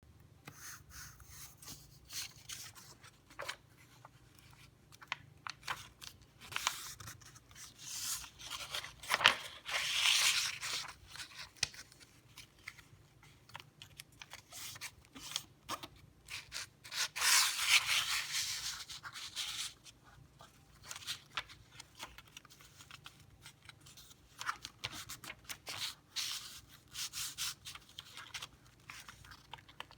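A sheet of paper being handled and folded by hand: light crackles and rustles as it is turned and creased, with two longer, louder rubbing strokes about a third and two-thirds of the way through, as a fold is pressed flat along its crease.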